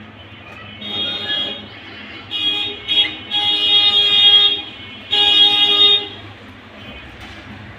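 Budgerigars calling: four loud bouts of buzzy, pitched calls, each about a second or less, over a steady low hum.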